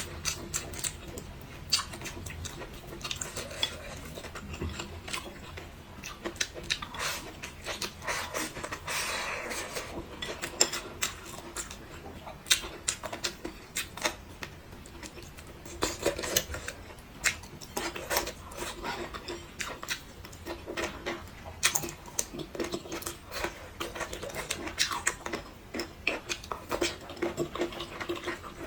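Cutlery clicking and scraping against dishes, mixed with close-up chewing and other eating sounds.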